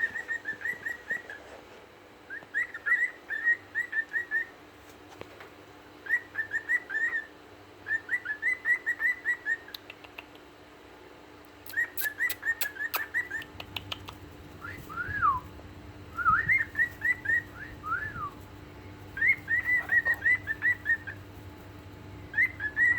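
Male cockatiels whistling their song in short phrases of quick, chirpy notes with pauses between, a few longer falling whistles coming about two-thirds of the way through. A quick run of sharp clicks sounds around the middle.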